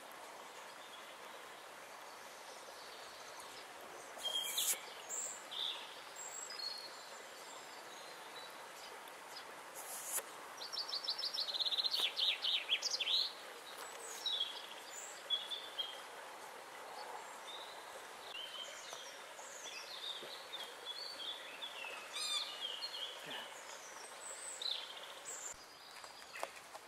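Songbirds singing and calling over a steady background hiss, with one loud, fast trilled phrase of rapid repeated notes about eleven seconds in and a few short clicks.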